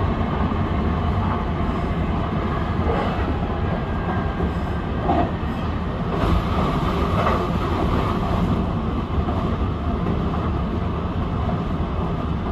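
Kintetsu Urban Liner limited express electric train running along the line, heard from the driver's cab: a steady low rumble of wheels on rail with occasional clicks from the track.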